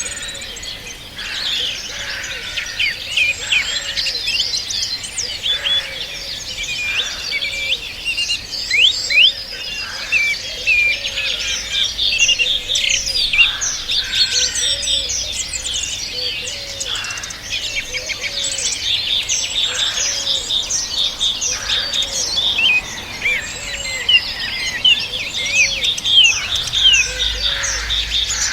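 A dense chorus of many songbirds singing and chirping at once, with quick trills and whistles overlapping. Under the chorus, a lower short call repeats every second or so.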